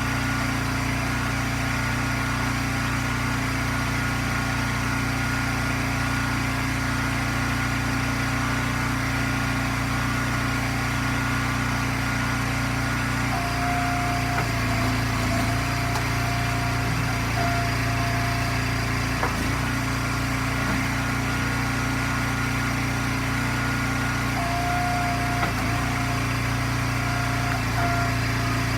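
Gas engine of an Eastonmade wood splitter running steadily. A higher whine joins it twice for a few seconds, about halfway through and again near the end, with a few light knocks.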